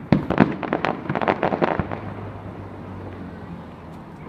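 Fireworks going off: a rapid string of sharp crackling pops over about the first two seconds, then a fading rumble.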